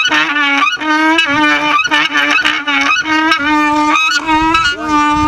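Folk music on a reedy, nasal wind instrument: a melody of short bending notes played over a steady low drone note that breaks off briefly between phrases.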